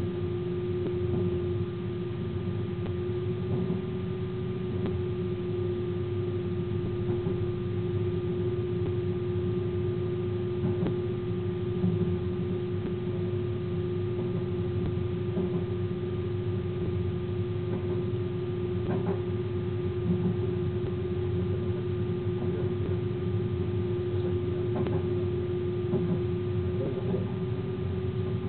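Train running at speed, heard from inside the driver's cab: a steady low rumble under a constant humming tone from the locomotive, with scattered sharp clicks from the wheels and cab fittings.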